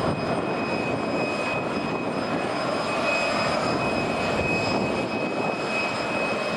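Jet airliner engines running: a steady rushing noise with a thin, steady high whine over it.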